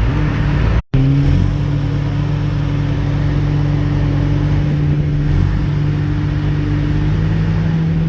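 Ferry boat's engine running steadily with a low rumble and a held hum. The sound cuts out completely for an instant just under a second in, then resumes.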